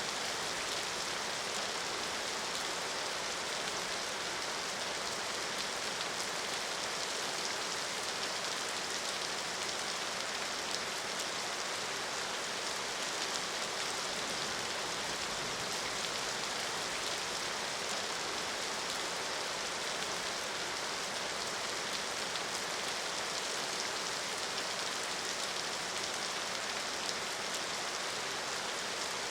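Steady heavy rain falling, an even hiss with fine patter of drops throughout.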